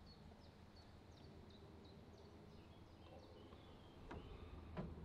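Near-silent outdoor ambience with a small bird repeating short, high, falling chirps, about three a second, then a few lower notes. Two soft knocks come near the end.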